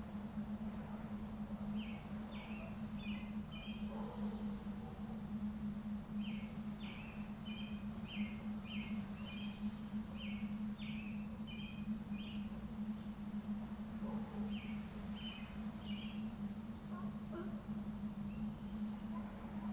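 A bird gives runs of short, quick high chirps several times, over a steady low hum.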